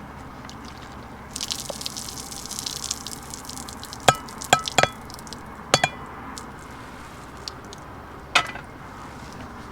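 Cooking sounds: a couple of seconds of hissing, then five sharp metallic clinks with a short ring, a utensil striking a pot, over a steady low background.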